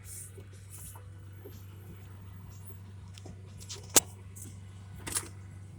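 A vehicle engine running with a steady low hum. There is a sharp click about four seconds in and a smaller one just over a second later.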